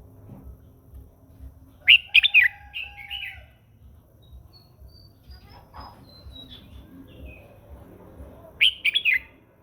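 Red-whiskered bulbul singing: a loud, quick warbled phrase about two seconds in and another near the end, with fainter high whistled notes between.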